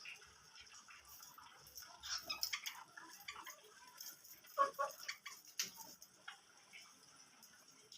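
Pet finches and budgies pecking at their food: scattered light ticks and clicks, irregular, with a louder cluster about four and a half seconds in.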